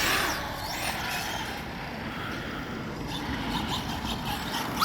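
Radio-controlled short course truck's brushless electric motor whining as it is throttled, the pitch rising and falling near the start, over the noise of the tyres running across the ground.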